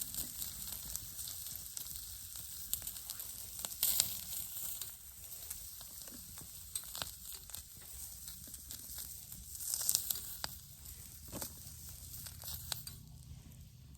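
Food sizzling on an iron griddle over a campfire: a steady high hiss with scattered small pops, swelling louder about four seconds and ten seconds in.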